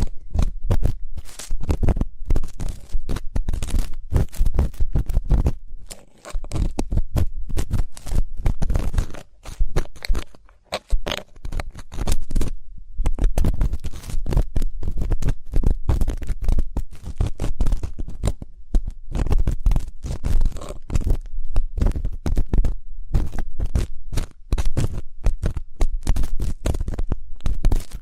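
An ear pick scratching and scraping inside a microphone's ear for ear-cleaning ASMR: a dense, irregular run of close, crackly scrapes. It breaks off briefly about six seconds in and again around ten to eleven seconds in.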